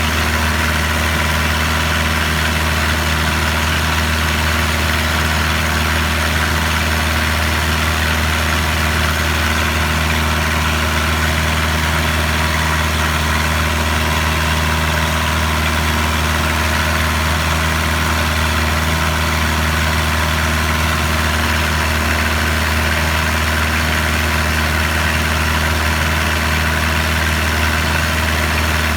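Boat engine running steadily, heard on board: a constant low drone with a steady hiss over it and no change in speed.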